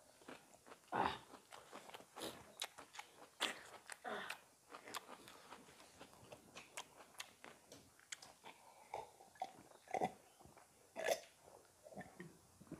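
Close, faint eating sounds of people chewing chicken curry and rice eaten by hand: irregular wet chewing, lip smacks and small crunches.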